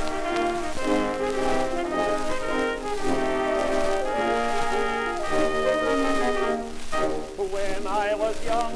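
Early-1920s dance orchestra playing an instrumental introduction from an old shellac 78 rpm record, brass carrying sustained melody notes. Surface crackle and hiss from the worn disc run underneath.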